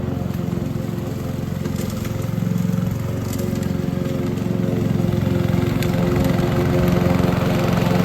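Petrol lawn mower engine running steadily, with a few light ticks over it; it grows a little louder in the second half.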